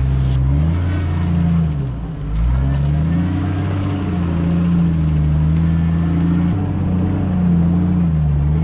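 Off-road 4x4's engine running under load, its pitch dropping and then climbing back about two seconds in as the throttle is let off and reapplied, then holding fairly steady.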